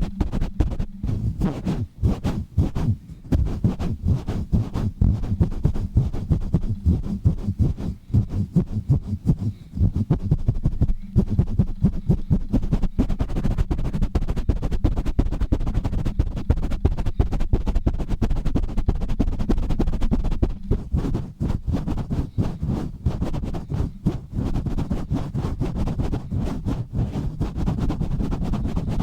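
Fast, rough rubbing and scratching right on a microphone: a dense, chaotic stream of quick strokes, heavy in the low end.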